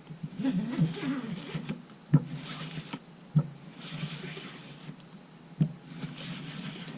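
Pieces of broken LCD cover glass being handled on a workbench: three sharp clicks as bits are set down or tapped, with short scraping and rustling sounds between them.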